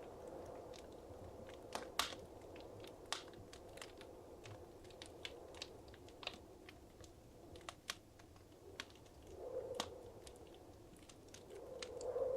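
Fireplace fire crackling: irregular sharp pops and snaps over a soft rushing of flames that swells briefly a little past nine seconds and again near the end.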